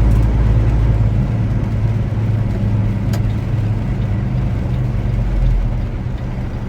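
Truck engine drone and road noise heard from inside the cab while driving, a steady low hum, with a single faint click about three seconds in.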